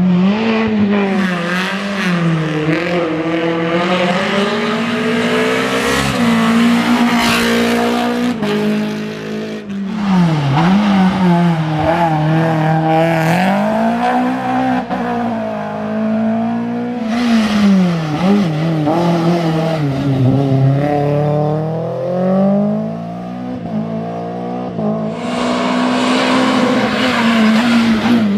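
Renault Clio Williams rally car's 2.0-litre 16-valve four-cylinder engine driven hard, its pitch rising and falling over and over as it revs through gear changes and lifts for corners.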